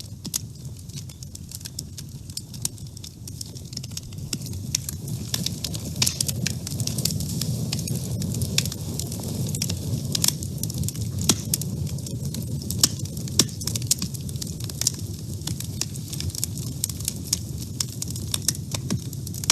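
Wood fire burning in a woodstove: frequent sharp crackles and pops over a steady low rumble of the flames, growing a little louder over the first few seconds.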